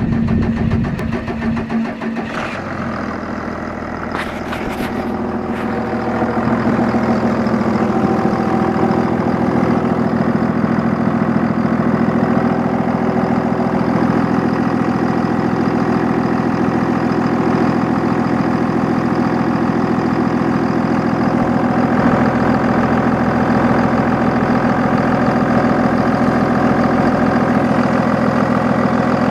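Cummins turbo-diesel engine of a 1999 Dodge Ram 3500 idling just after being started, settling into a steady idle about six seconds in. A few brief light clicks are heard about four to five seconds in.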